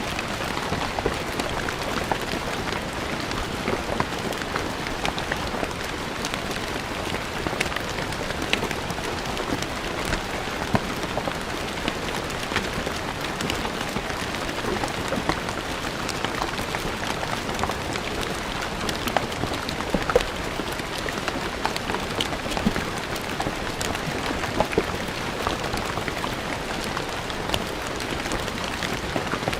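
Steady rain falling on a stone floor, a continuous hiss with many individual drops pattering and ticking on the stone.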